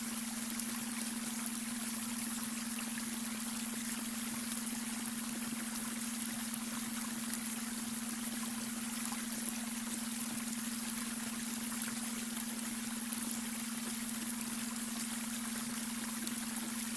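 Babbling brook: water running and trickling steadily, with a constant low hum-like tone underneath, the beta brainwave tone blended into the soundscape.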